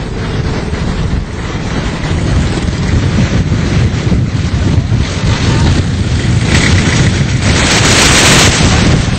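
Loud rushing of flash-flood water, mixed with wind buffeting the microphone as a heavy, uneven rumble. A harsher hiss swells about eight seconds in.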